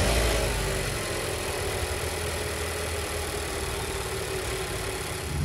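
Mazda CX-5 Skyactiv engine running just after being started, loudest at first and easing into a steady idle within about a second.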